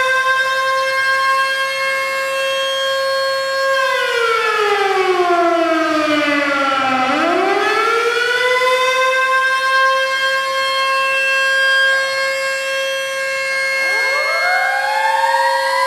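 Mechanical siren wailing: a steady high tone that winds down in pitch about four seconds in, climbs back up, and holds, with a second siren winding up near the end.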